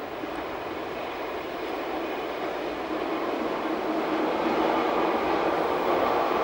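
Glacier Express metre-gauge train running along the track, a steady rolling rush of wheels on rails that grows louder throughout.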